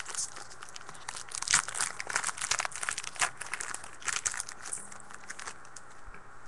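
Foil wrapper of a trading-card pack being torn open and crinkled by hand, a dense run of irregular crackles that thins out about five seconds in.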